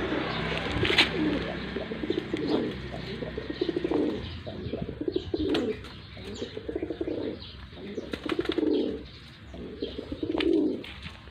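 Several pigeons cooing over one another in repeated low phrases, roughly one a second, with a few sharper chirps among them.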